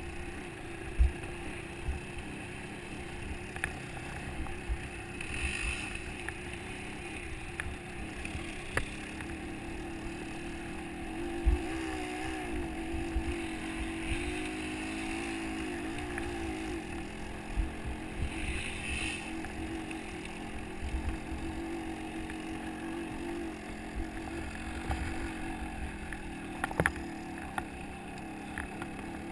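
Motocross bike engine running, its note wavering up and down around the middle, with occasional thumps on the microphone.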